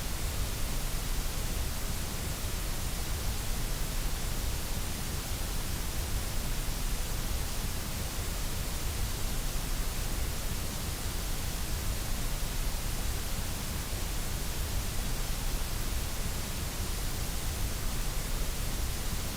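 Steady white noise played as a sleep and relaxation sound: an even, unchanging hiss with a rumble underneath.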